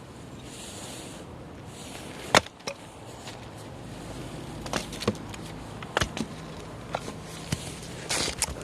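Firewood burning, with sharp irregular pops and snaps over a low steady background; the loudest pop comes about two seconds in and several more come close together near the end.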